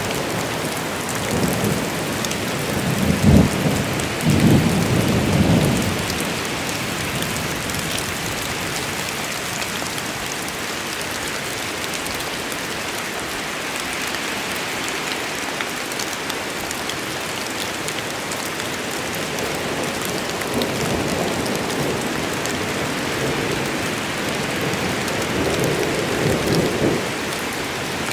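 Steady heavy rain falling in a forest, with thunder rumbling twice: a louder roll a few seconds in and a softer one near the end.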